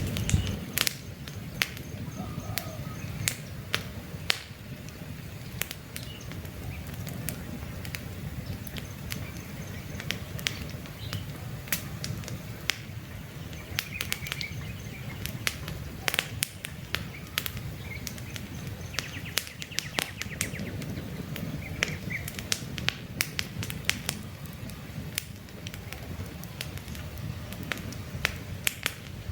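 Campfire crackling, with frequent sharp irregular pops over a steady low rush of burning wood, and birds chirping faintly in the background.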